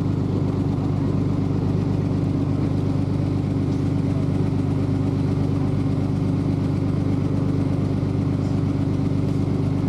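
Canal boat's engine running steadily, a constant low drone with no change in speed.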